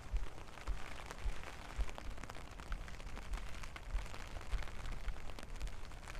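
Steady rainfall, with many sharp drop ticks over an even hiss, and low thumps about twice a second.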